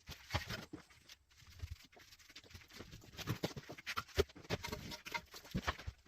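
Loose old bricks being pulled off a crumbling stove surround: irregular knocks, clatters and scrapes of brick and dry mortar, the sharpest knock about four seconds in. The mortar is weak and crumbling, so the bricks come away easily.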